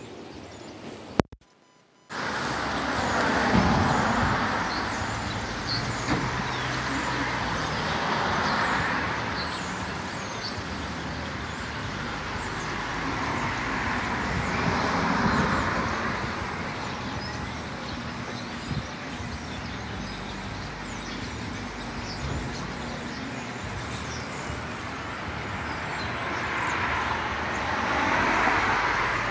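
Road traffic: cars passing one after another, the noise swelling and fading with each. It starts abruptly about two seconds in, after a moment of near silence.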